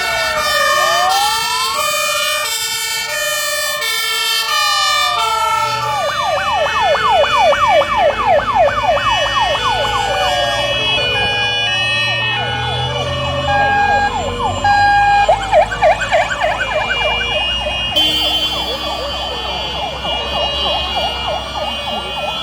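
Several fire engine sirens sounding at once as a column of fire trucks passes: alternating two-tone notes, slow rising-and-falling wails, and a fast yelp that comes in about six seconds in and again around fifteen seconds. Truck engines rumble underneath.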